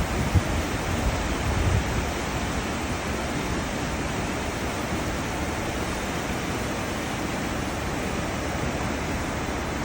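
Cruise ship wake churning and rushing astern as a steady, even wash of water, with a few louder low bumps in the first two seconds.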